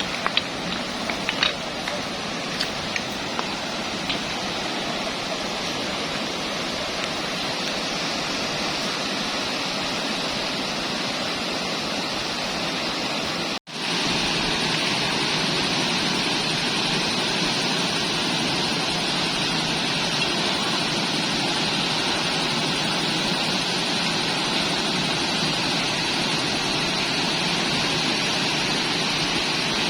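Waterfall: a steady rush of falling water, cutting out for an instant near the middle.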